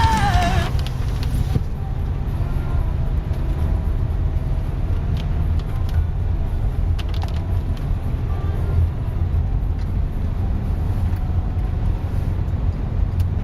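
Steady low rumble of a 2011 Subaru WRX driving, road and engine noise heard from inside the cabin. The end of a song cuts off just under a second in.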